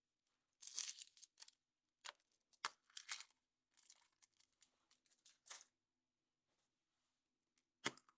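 Foil wrapper of a chocolate surprise egg being torn and crinkled in short bursts, then a sharp snap near the end.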